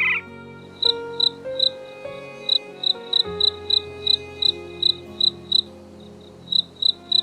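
Short, high-pitched chirps, about two or three a second with a brief pause near the end, over soft background music.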